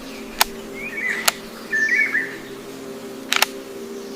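A bird chirping: two short warbling calls, with three sharp clicks and a steady low hum beneath.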